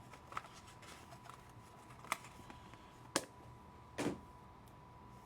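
Trading cards and packaging being handled on a table: a few light sharp clicks and taps, then a short scrape about four seconds in, over a faint steady high tone.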